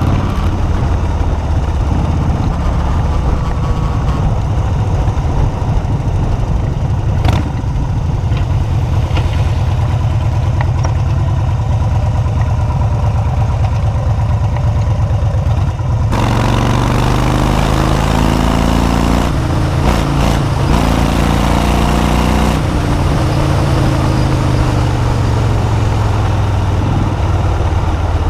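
Motorcycle engine running loud and steady while under way. About sixteen seconds in the sound changes abruptly, and the engine note then rises and falls in steps.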